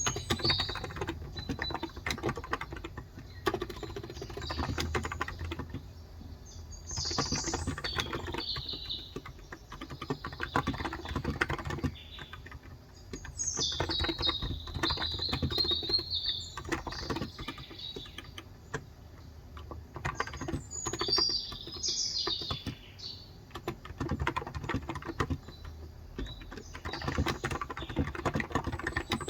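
Typing on a Cox Endeavor electro-capacitive (Topre-style) 35 g tenkeyless keyboard, in bursts of rapid keystrokes with short pauses. Small birds chirp on and off in the background.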